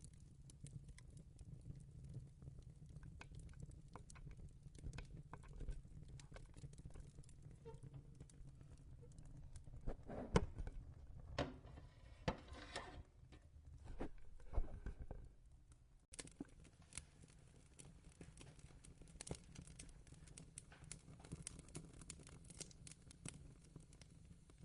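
Fireplace crackling: scattered small pops and clicks over a low rumble. In the middle come a few louder rustling and knocking handling noises.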